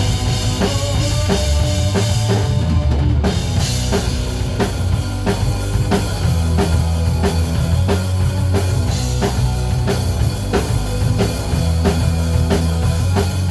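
A band playing an instrumental passage of a rock song: a steady drum-kit beat with bass, no singing.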